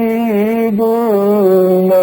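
A male reciter chanting the Qur'an in melodic tajwid style, holding one long drawn-out vowel with small ornamental turns in pitch.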